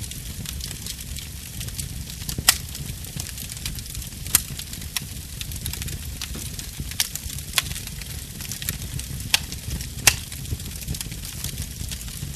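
Burning wood fire crackling, with sharp pops every second or so over a steady low rumble and hiss. The loudest pops come about two and a half seconds in and near the end.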